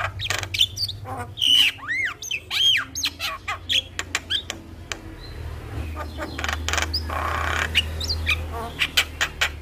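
Javan myna (jalak kebo) singing: a varied run of whistled notes gliding up and down, mixed with harsh squawks and sharp clicking notes. A long rasping squawk comes a little past the middle, and a quick series of clicks near the end.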